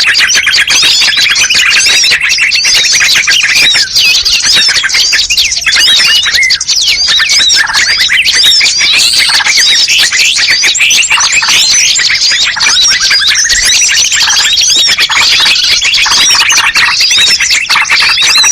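A dense chorus of many small songbirds chirping and calling at once, as in a bird-lure (pikat) recording for bulbuls and prinias. A long rising trill cuts through twice, near the start and again about two-thirds of the way in.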